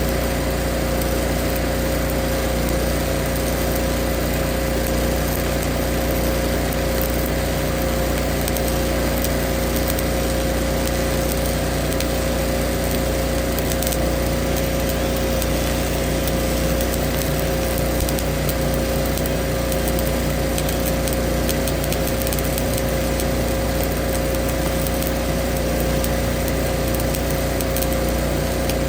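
Skid-steer forestry mulcher running steadily with a constant whine, its drum chewing through wood.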